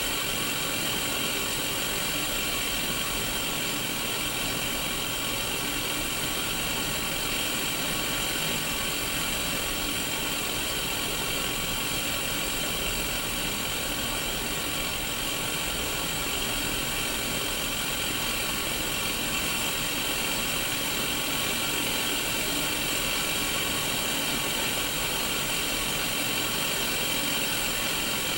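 Static hiss from a Sony Mega Watchman black-and-white mini CRT TV tuned to no signal: a steady, unchanging rush of white noise, brightest in the upper middle.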